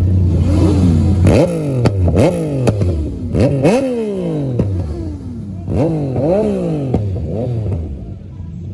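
Motorcycle engines revved in quick repeated throttle blips, the pitch jumping up and dropping back again and again over a steady idle, dying down near the end.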